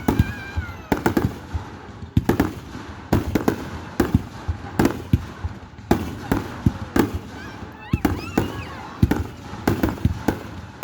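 Aerial fireworks display going off: a rapid, irregular series of bangs and booms, several a second, each with a short echo.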